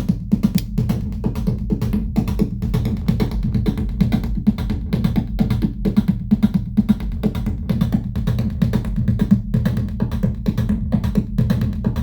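Eurorack modular synthesizer patch playing electronic music. A Noise Engineering Basimilus Iteritas Alter drum voice beats out a fast, steady percussive rhythm, and a Manis Iteritas voice plays a low, bass-heavy sequenced melody, with reverb from a Monsoon module.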